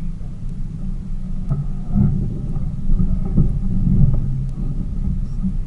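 Tour boat's engine running, a steady low rumble that swells louder from about two seconds in before easing back.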